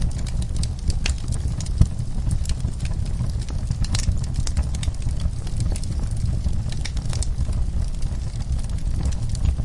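Wood fire burning in a fireplace, crackling: irregular sharp pops and snaps over a steady low rumble, with one louder pop about two seconds in.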